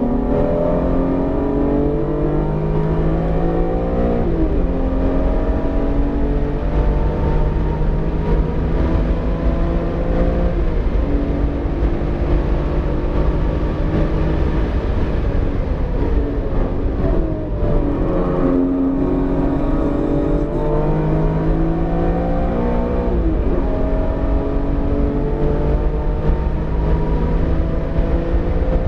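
BMW E46 M3's 3.2-litre S54 straight-six under hard acceleration on track, its pitch climbing and then dropping sharply at gear changes about four times. The engine is freshly rebuilt and still being broken in, with revs kept below 7,000.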